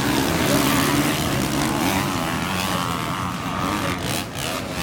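Motocross dirt bike engines revving, the pitch rising and falling as the bikes accelerate and back off.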